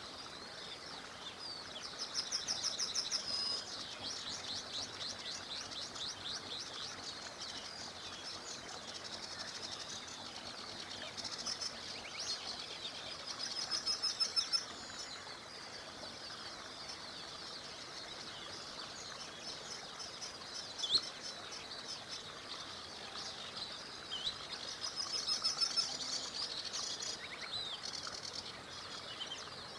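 Songbirds singing, with loud rapid trills of repeated high notes about two seconds in, near the middle and near the end, and scattered chirps between. Underneath is the steady rush of a small river.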